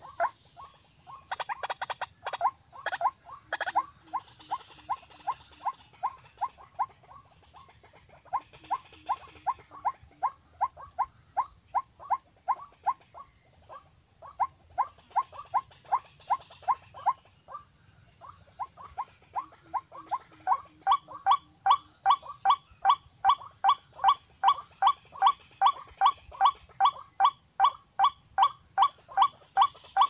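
A bird's call repeated over and over: short, sharp, falling notes about three a second, in runs broken by brief pauses. The calls grow louder from about twenty seconds in.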